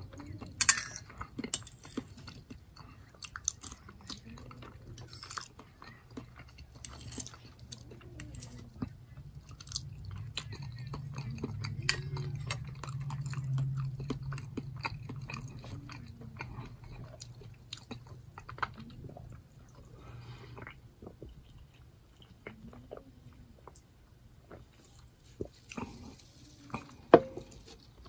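Close-miked chewing and mouth sounds while a metal fork scrapes and taps a ceramic plate, over a low steady hum. Near the end comes one sharp clink, the fork set down on the plate.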